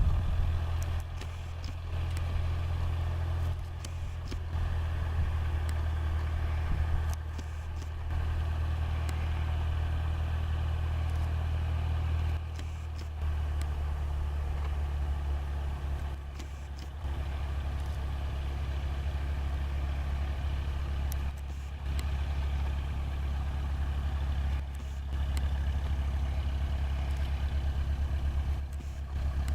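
Cessna 152's four-cylinder Lycoming O-235 engine running steadily: a low drone with brief dips in level every few seconds.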